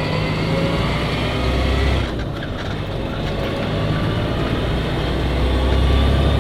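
Truck engine running under load, heard from inside the cab, its pitch climbing slowly as it accelerates. There is a short dip about two seconds in, then it climbs again.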